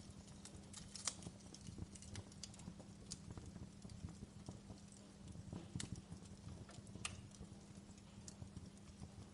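Wood fire crackling: irregular small pops and snaps, a sharper snap about a second in and another near the end, over a low steady hum.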